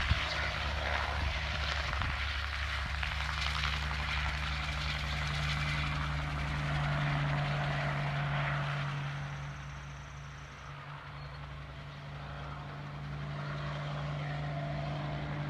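Distant crop-dusting helicopter flying, a steady low drone that fades somewhat partway through and then comes back up.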